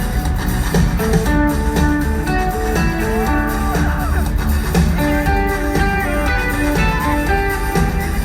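Live rock band playing an instrumental passage: a melodic guitar line of held notes over bass guitar and drums, with no singing.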